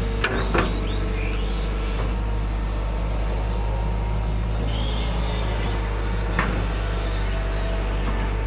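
Hydraulic excavator's diesel engine running steadily, with two short knocks right at the start and another about six seconds in.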